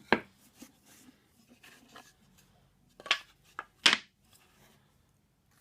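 Small wooden pieces being handled on a workbench: a few sharp knocks and clicks as they are set down, the loudest near four seconds, with light rubbing and ticks between.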